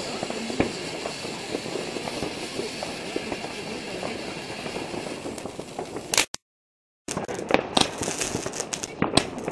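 Ground firework fountain burning with a steady hiss and dense crackling. After a short break about two-thirds of the way in, another firework spews sparks with louder, sharper cracks and pops.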